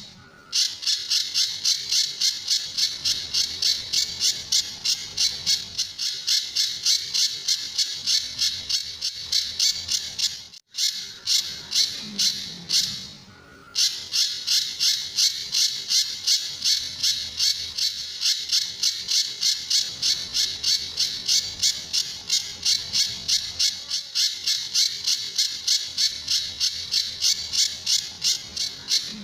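A pijantur bird giving its rapid-fire 'tembakan' call: harsh, high notes repeated about three to four times a second in a long unbroken run. The run pauses briefly twice, about ten seconds in and again around thirteen seconds.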